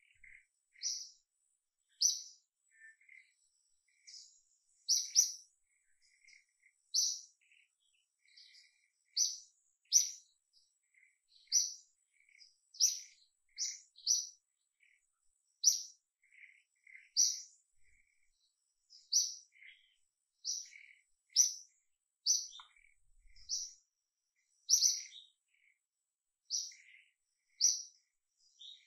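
Birds chirping: short, high, sharp chirps repeated about once a second, some in quick pairs, with fainter, lower twitters between them.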